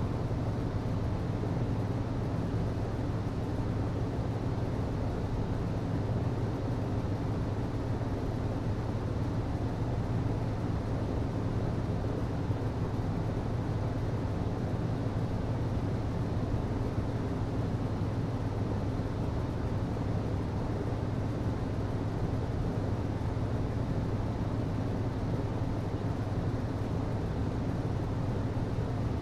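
HVAC system running: a steady low hum over an even rush of air, unchanging throughout.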